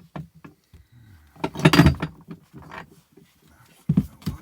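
Several heavy knocks from a tool being struck against an axe head and handle, with small clicks first, the loudest blows about a second and a half in and two sharp knocks near the end.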